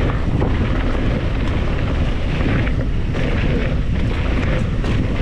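Wind buffeting the microphone of a camera riding on a mountain bike at downhill speed, a steady low rumble, with a few light clicks over it.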